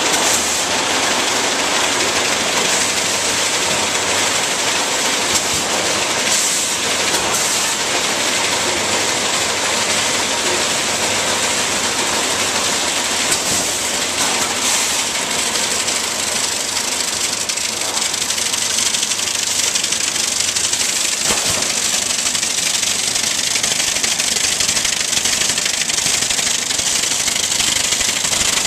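Soffit roll-forming machine running as it forms and punches vented soffit panels: a steady, dense mechanical noise strongest in the high end, with a few faint knocks.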